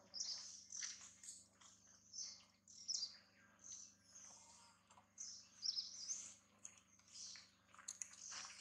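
Small birds chirping: many short, high calls with quick pitch glides, repeating irregularly.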